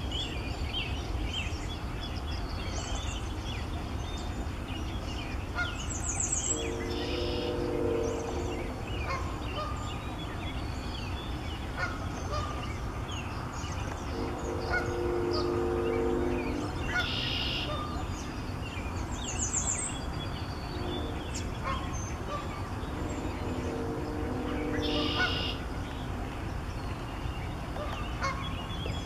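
Birds calling: a low, honking call lasting a second or two comes three times about eight seconds apart, over scattered high songbird chirps and a steady low rumble.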